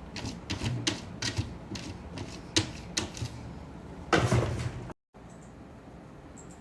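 A run of irregular sharp tapping clicks, like typing, followed about four seconds in by a louder rustling burst that cuts off abruptly.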